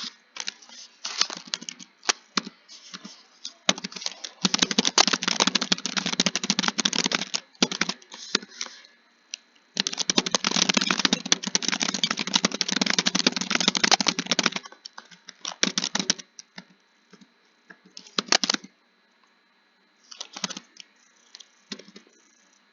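Keys being typed fast on a keyboard, in two long dense runs of clicking with scattered single keystrokes and short pauses between.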